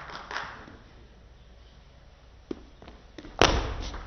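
Quiet hall, then a few light clicks of a table tennis ball from about two and a half seconds in, followed by a single loud sharp bang with a low thud.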